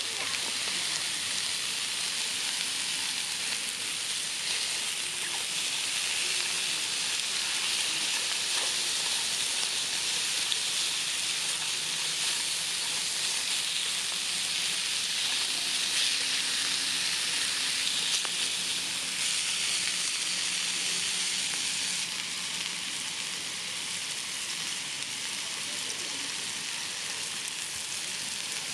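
Food sizzling steadily as it cooks over a campfire, a continuous hiss with a few small crackles.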